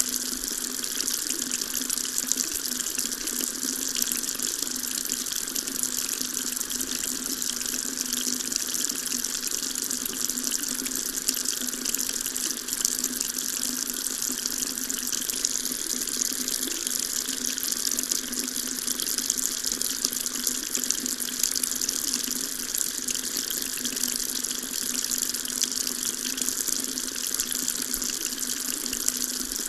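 Water tap running in a steady stream, a constant rushing splash with no change.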